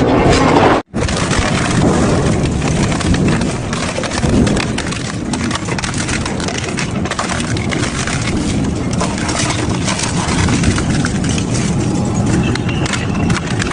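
Double-shaft shredder crushing and tearing metal: a continuous loud din of cracking, crunching and rattling. The sound cuts out for an instant about a second in, then carries on.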